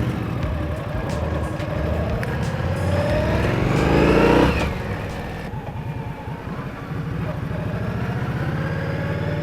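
V-twin motorcycle engine accelerating, its pitch rising for a few seconds to the loudest point about four seconds in. It then drops away abruptly as the throttle is rolled off, and runs on steadily.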